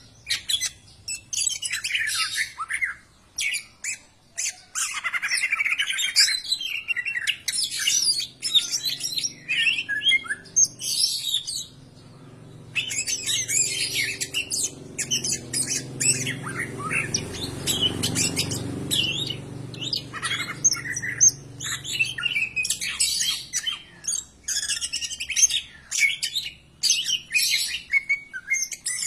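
Cucak ijo (greater green leafbird) singing a fast, varied run of loud chirps, whistles and harsh notes, with a short pause about twelve seconds in.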